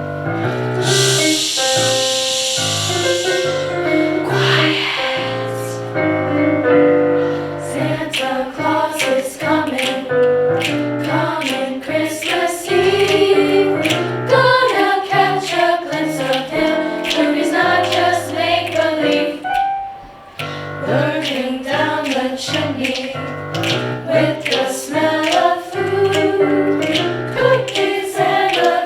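Music: a holiday song with keyboard or piano accompaniment and a choir singing, with a high shimmering hiss about a second in that lasts a few seconds.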